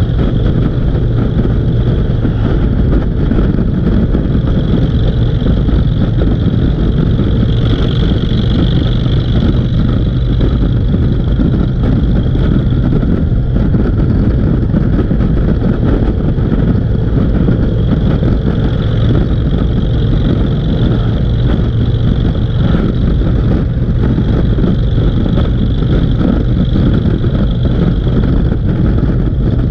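Motorcycle engine running at a steady road speed, with wind and road noise, unbroken throughout.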